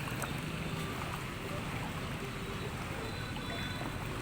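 Steady low rumble with a wash of water, as from a boat moving through floodwater.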